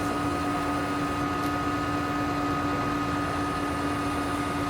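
Steady machine drone with a constant hum at a few fixed pitches, running evenly without change.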